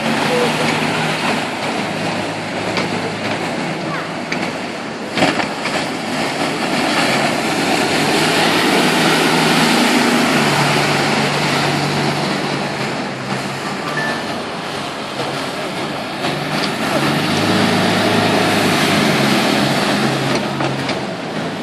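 Boat engines running and manoeuvring, their pitch shifting up and down, over a steady hiss of wind and water noise. Their sound grows louder around 8 to 10 seconds in and again near the end.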